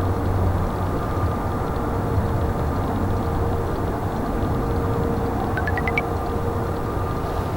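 Jet engines of an Airbus A320neo running with a steady hum and whine over a rumble. About three-quarters of the way through comes a short run of four or five quick, rising chirps.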